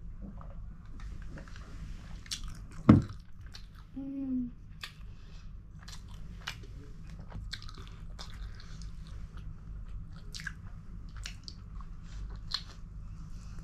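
Close-up eating sounds: a person chewing, with many sharp wet mouth clicks and smacks. One loud thump comes about three seconds in, and a brief hummed sound follows about a second later.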